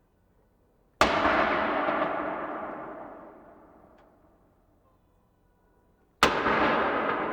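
Two saluting-cannon shots of a gun salute, about five seconds apart, each a sharp blast with a long echoing decay.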